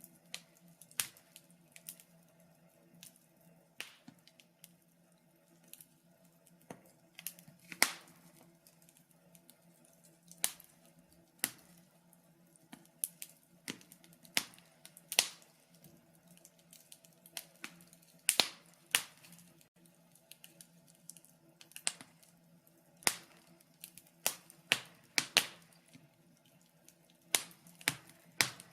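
Wood fire crackling in a fireplace, with irregular sharp pops and snaps, some much louder than others, over a faint steady low hum.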